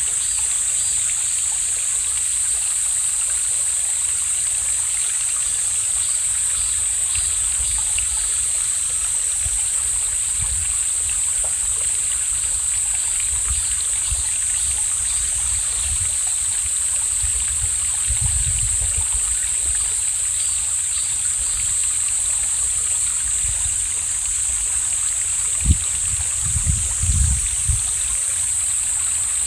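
Mountain valley stream flowing steadily, a continuous even rush of water. A few short low thumps come near the end.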